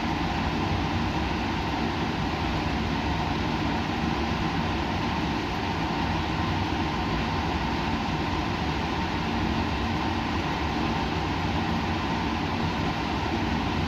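Steady, unchanging hum and hiss of laboratory machinery or ventilation, with a low drone and a few fixed hum tones underneath.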